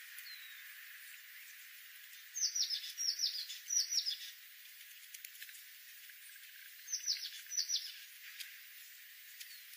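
A small bird calling: short, high chirps that slide downward in pitch, three in quick succession and then two more a few seconds later.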